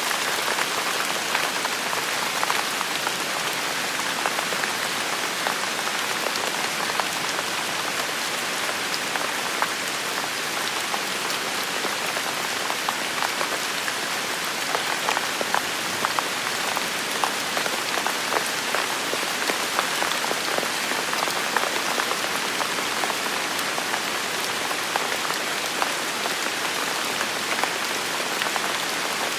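Steady rain falling, an even hiss dotted with the ticks and patters of individual drops hitting a surface.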